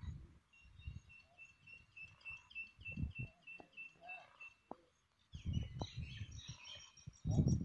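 A bird calling a fast run of short, even, high chirps, about five a second, followed by a burst of busier chirping. From about five seconds in, a low buffeting rumble comes in gusts, louder near the end.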